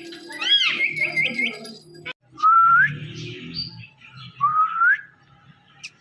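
Indian ringneck parrot giving a few short arched chirps and a quick run of notes, then two clean rising whistles about two seconds apart.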